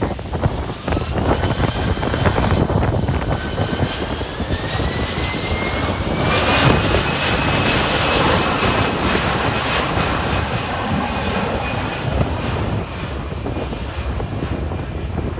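Departing airliner's jet engines spooling up on the take-off run: a whine that rises in pitch over the first several seconds, then holds steady, loudest about six to seven seconds in. Wind buffets the microphone throughout.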